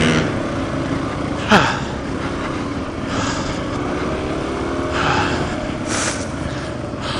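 Suzuki DR-Z400 single-cylinder dual-sport motorcycle engine running at low speed on a steep rocky climb, its revs rising and falling unevenly. There is one brief loud burst about a second and a half in.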